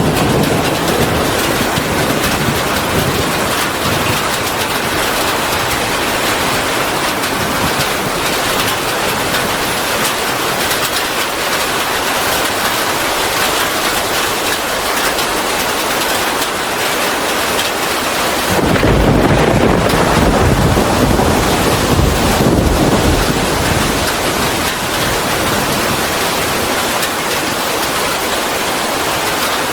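Steady heavy rain falling, with a low rumble of thunder swelling for a few seconds about two-thirds of the way through.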